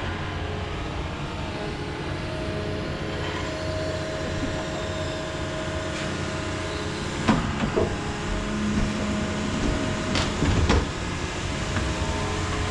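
Excavator's diesel engine running steadily while it works in a creek. Sharp knocks come in two short clusters, about seven seconds in and again about ten seconds in.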